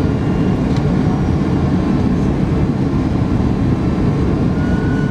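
Steady low rumble of an Airbus A310-300 heard inside the passenger cabin, the engines and airflow running without change, with a faint thin high whine near the end.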